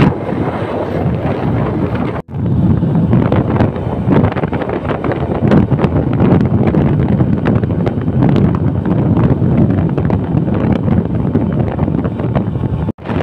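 Wind buffeting a camera microphone on a moving motorcycle, a loud, rough rumble. The rumble drops out abruptly for a moment about two seconds in and again near the end.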